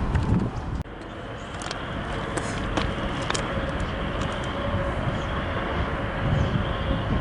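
CSX freight train rolling past: a steady rumble of wheels on rail with scattered sharp clicks. The level drops abruptly just under a second in.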